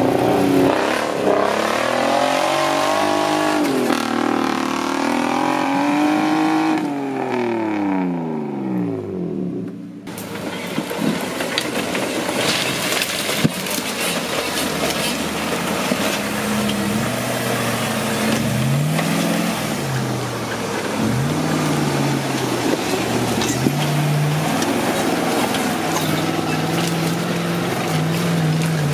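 Off-road buggy engine revving hard under load, its pitch swinging up and down, then dropping away. About ten seconds in the sound cuts to another stretch of repeated short revs as the vehicle crawls up a rocky slope.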